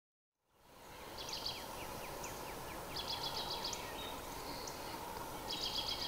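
Small birds chirping in three short bursts of quick, high, repeated notes over a steady background hiss. The sound cuts in from silence about half a second in.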